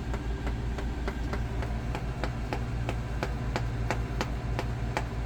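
Small camper air conditioning unit running with a steady low hum and a regular ticking, about three ticks a second.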